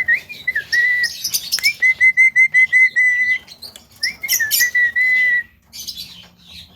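Javan myna whistling and chattering: an upslurred whistle, harsh scratchy chatter, then a quick run of about eight short repeated whistled notes, and a longer held whistle about four seconds in.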